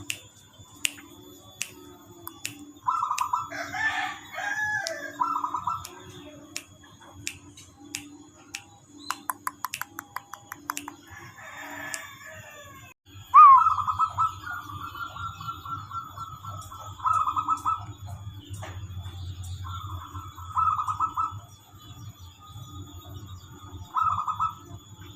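Birds calling: a few short calls early on, then a louder, rapidly pulsed call starting about halfway and lasting about four seconds, followed by more short calls, with scattered sharp clicks in the first half.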